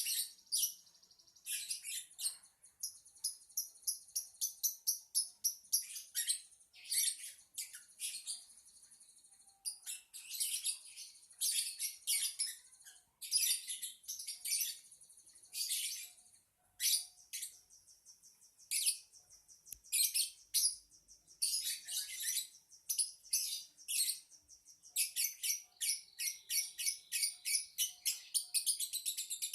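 Lovebird chattering and trilling: long runs of rapid, high-pitched chirps broken by short pauses, with a few long buzzy held notes.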